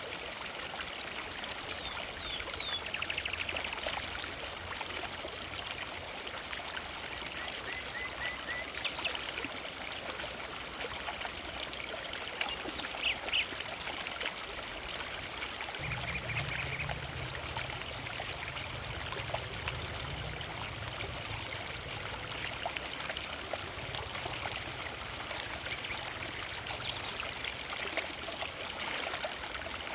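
A forest river flowing steadily, with short bird chirps now and then above the rush of water. A low rumble joins the water sound about halfway through.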